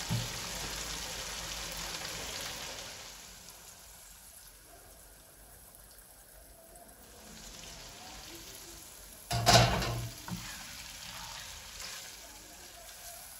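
Thick beef and turnip curry sizzling in its separated oil in a nonstick wok while a silicone spatula stirs it. The sizzle dies down after about three seconds as the gas is turned off, and a short loud clatter comes about nine and a half seconds in.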